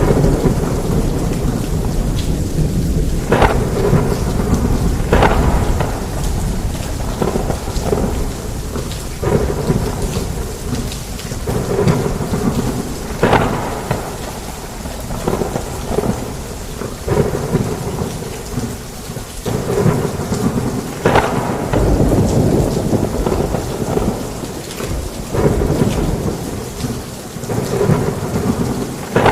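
Heavy rain falling in a thunderstorm, with thunder rumbling. Sharp cracks and swells come through again and again over the steady downpour.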